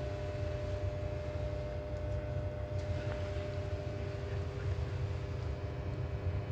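Steady low rumble with a constant electrical hum inside a passenger train carriage, from the train's onboard equipment.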